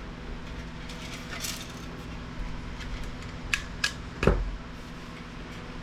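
A few sharp clicks and knocks of small electronic scrap parts being handled and set down on a workbench, the loudest knock about four seconds in.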